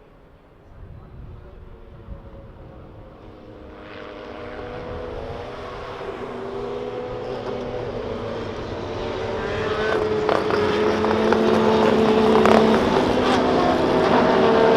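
Racing sports car engine approaching, growing steadily louder, its note rising and dropping as the revs change. A couple of sharp cracks come near the end as it closes in.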